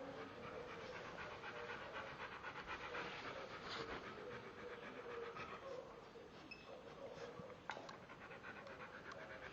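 A dog panting rapidly and steadily, with a single short click about three quarters of the way through.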